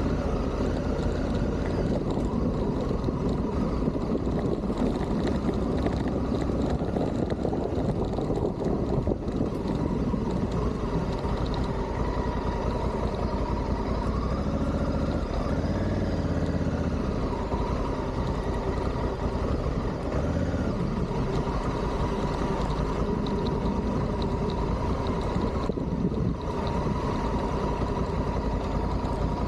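Adventure motorcycle engine running steadily, with a dense, even rush of noise over it.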